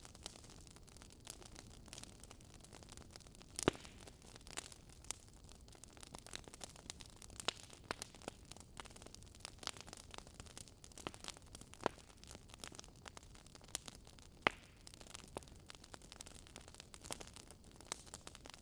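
Burning firewood crackling and popping: irregular sharp snaps of varying loudness over a faint steady hiss.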